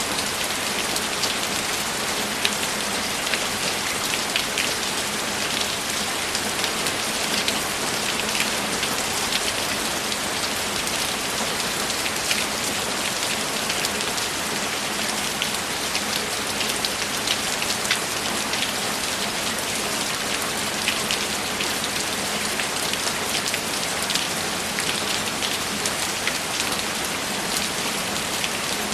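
Steady, even rainfall with many close drops ticking sharply on a surface.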